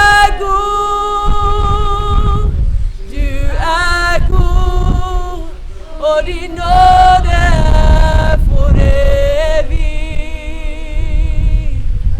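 A group of voices singing a worship song, holding long notes with vibrato.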